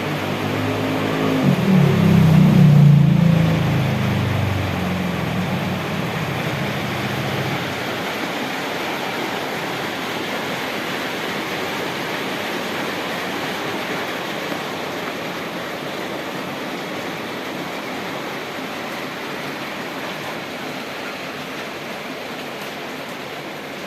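Heavy rain falling steadily. In the first few seconds a motor vehicle engine passes, loudest about three seconds in and fading away by about seven seconds.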